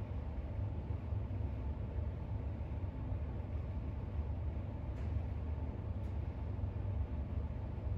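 Steady low background rumble, with two faint clicks about five and six seconds in.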